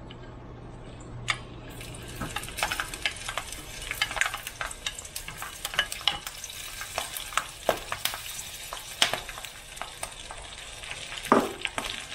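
Whole chilies frying in hot oil in a skillet: a constant sizzle full of sharp pops and spattering crackles that sets in about two seconds in, as a wooden spatula pushes them into the pan. A single thump near the end.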